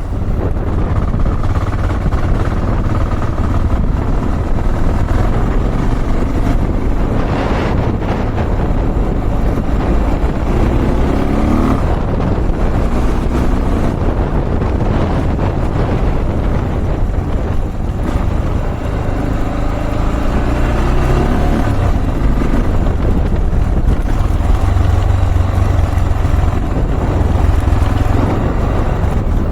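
Honda XR650L's single-cylinder four-stroke engine running under way, its pitch climbing and dropping a few times as the throttle is worked.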